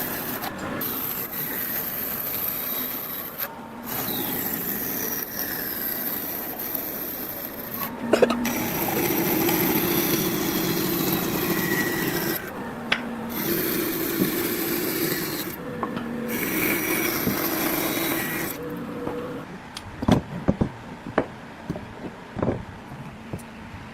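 A tool working on wood, scraping or cutting steadily in several stretches that break off abruptly. Near the end this gives way to a few sharp knocks and taps.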